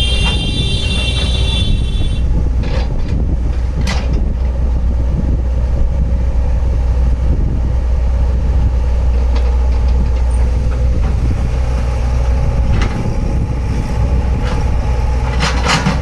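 Heavy earth-moving vehicle's engine running steadily with a deep rumble. A high, steady multi-tone sound is heard over it for the first two seconds, and there are a few brief knocks.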